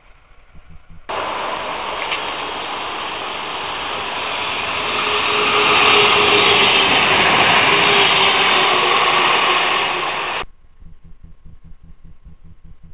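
Diesel multiple unit passing close by: a loud, dense, muffled rush of noise that builds over several seconds, with a faint engine note, then cuts off suddenly.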